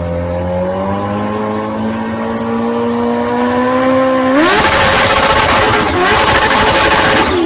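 Vehicle engine running with its pitch slowly climbing, then revving sharply up about four and a half seconds in, when a loud rushing noise joins it.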